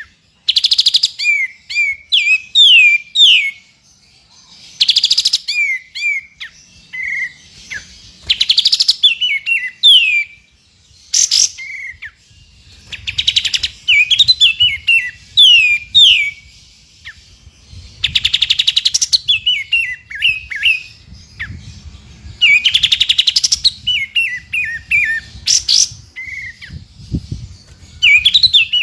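Songbird song played as a training recording: runs of quick, falling whistled notes alternating with loud, rapid buzzing rattles, the phrase pattern repeating about every four seconds.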